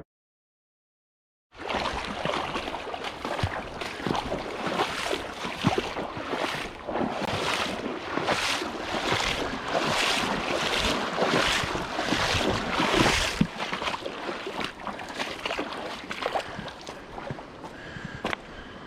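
Splashing of legs wading through a river in regular strides, about one and a half a second, over the rush of flowing water. It starts after about a second and a half of silence, and the splashes are loudest in the middle before easing off.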